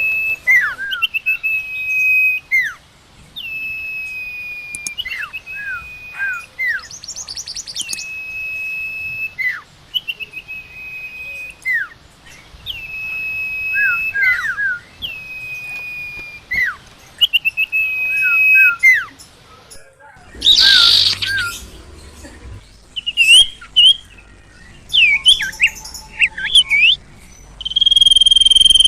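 Songbird known in Indonesia as sirtu (sirpo) singing a repeated phrase about every two seconds: a held high whistle followed by a few quick falling notes. After a short noisy burst about twenty seconds in, it switches to faster, varied chirps.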